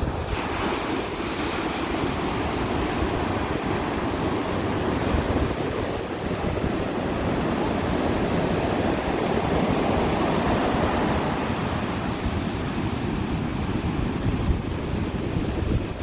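Ocean surf washing and breaking, one wave crashing in about a second in and another surge swelling around the middle, with wind rumbling on the microphone.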